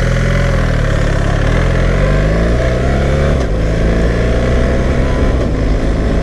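BMW R 1300 GS motorcycle's boxer-twin engine running under way, its pitch rising and falling as engine speed changes, with a marked shift about three and a half seconds in.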